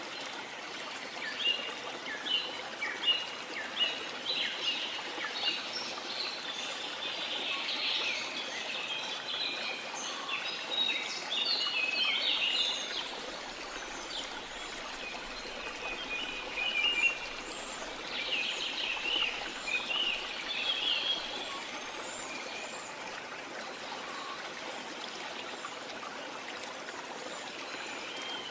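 Steady rush of a waterfall with many birds chirping and calling over it, the calls busiest through most of the stretch and thinning out near the end.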